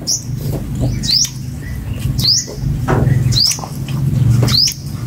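A bird chirping over and over: one short, high, rising chirp about every second.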